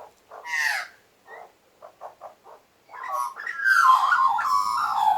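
Birds calling from a tree: a couple of harsh calls, then a run of short clipped notes, then a loud, gliding, warbling song from about three seconds in.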